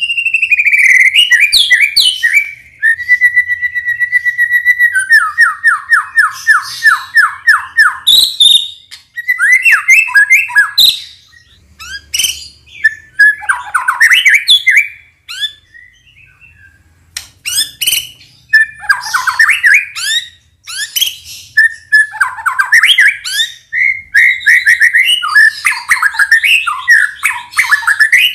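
White-rumped shama (murai batu) singing a long, varied song: a falling whistle, a held whistled note, then a fast run of repeated notes, followed by bursts of trilled and chattering phrases with a short pause about halfway through.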